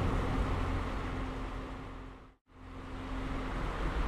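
Steady low rumble of a moving car heard from inside the cabin, with a faint steady hum. It fades to silence a little past halfway, then fades back in.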